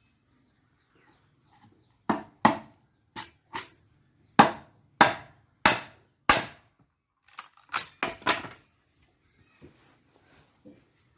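Wood being chopped by hand with a blade: about a dozen sharp strikes, roughly two a second, starting about two seconds in and stopping a little after eight seconds.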